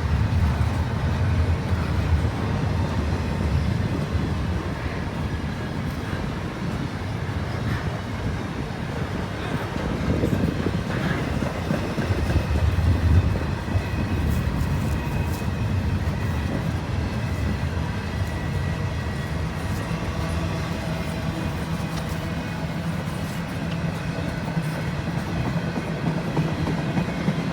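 Freight train rolling past: a steady low rumble of wheels on the rails.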